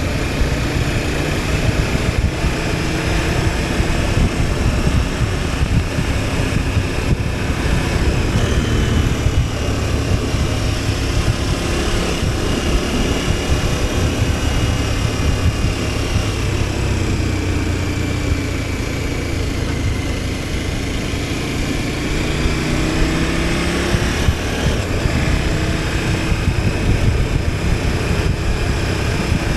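KTM 1290 Super Adventure S's V-twin engine running steadily under way, heard from the bike, its note rising and falling gently with road speed over a constant low rumble.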